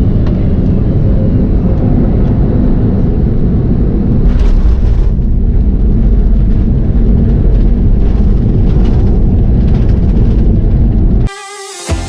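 Loud, steady rumble of an Airbus A321XLR airliner landing, heard from inside the cabin: engine and runway noise, strongest in the low range. It cuts off abruptly about eleven seconds in.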